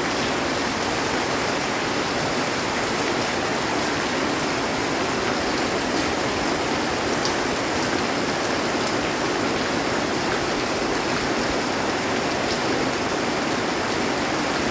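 Heavy rain falling steadily on a metal roof, an even, unbroken hiss with a few faint drop ticks.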